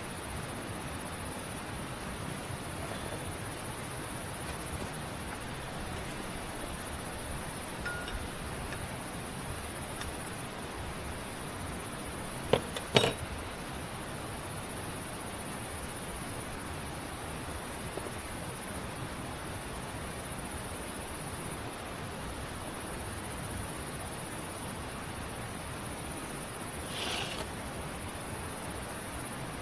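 Insects trilling steadily in a high, unbroken band over an even background hiss. Two sharp clicks or knocks come close together a little before halfway, and a short chirp comes near the end.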